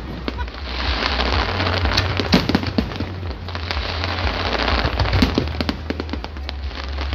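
Fireworks display going off: dense crackling with many sharp bangs over a low rumble.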